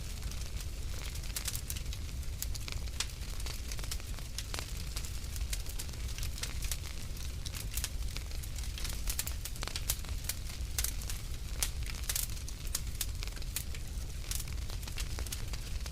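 Wood fire crackling in a fireplace: many irregular sharp pops and snaps over a low steady rumble of the flames.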